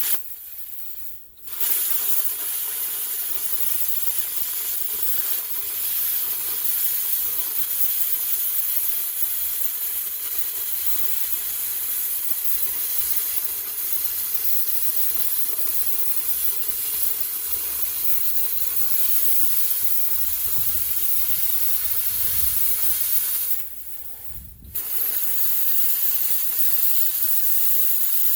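Long, steady, hissing passes of an electric arc on steel, from a welder or plasma cutter at work on the rusted bracket. The hiss breaks off briefly about a second in, runs unbroken, stops for about a second near the end, then starts again.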